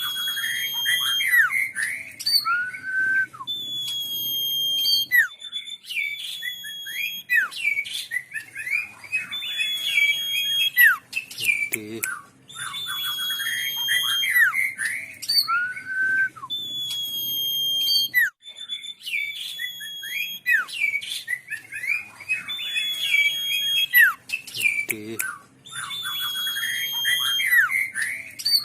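Sirtu songbird singing continuously in fast chirps, sliding notes and thin high whistles. It is a looped masteran training recording, and the same song phrase comes back about every twelve seconds.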